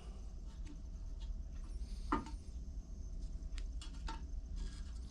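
Small carburetor parts being handled and fitted by hand: scattered light clicks and ticks, with one firmer tap about two seconds in, over a steady low hum.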